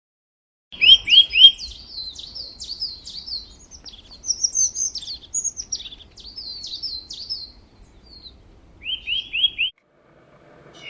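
A songbird singing: a long run of quick, high chirps and trills, opening with three quick falling notes and ending with three more near the end.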